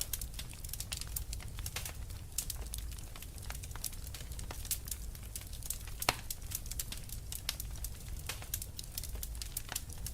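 Wood fire crackling, a steady run of small pops and snaps over a low rumble of flames, with one sharper pop about six seconds in.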